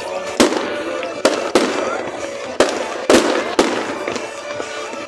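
Fireworks display: six sharp aerial bangs at uneven intervals, about a second or less apart, with crackling between them.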